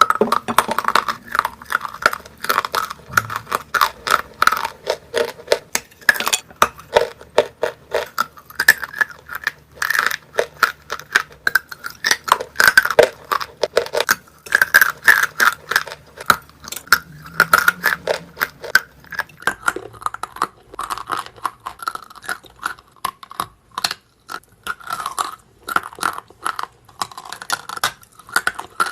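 Close-miked chewing of a hard, dry, crumbly mineral snack such as chalk or edible clay: loud, dense crunching and crackling, bite after bite with no real pause.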